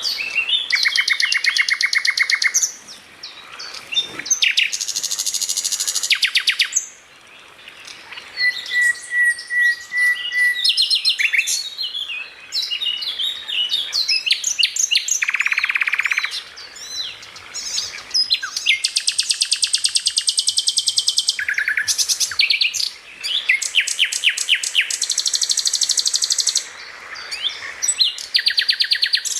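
Songbird singing loudly and continuously in varied phrases: fast buzzing trills, a short run of evenly spaced whistled notes about a third of the way in, and quick chattering figures, with brief pauses between phrases.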